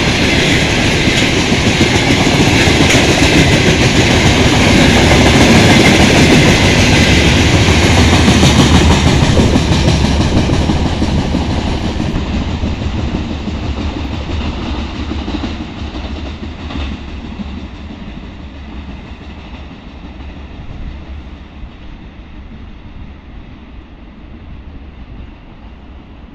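Loaded grain hopper wagons of a freight train rolling past on the rails. The noise is loud for the first ten seconds or so, then fades steadily as the end of the train draws away.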